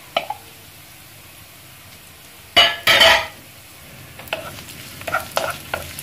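Diced bacon, onion and garlic frying in olive oil in a nonstick wok, with a quiet steady sizzle. About two and a half seconds in comes a loud double scrape. From about four seconds a wooden spoon stirs, scraping and knocking against the pan about three times a second.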